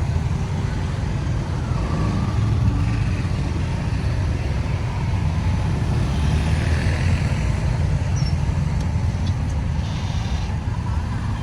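Road traffic noise: a steady low rumble of vehicle engines and tyres on the road.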